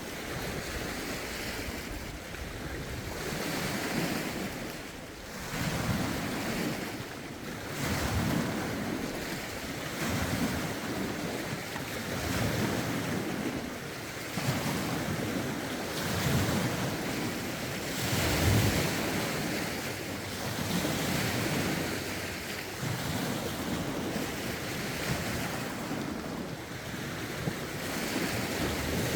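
Lake waves lapping and washing ashore, one after another every second or two, with wind gusting and rumbling on the microphone.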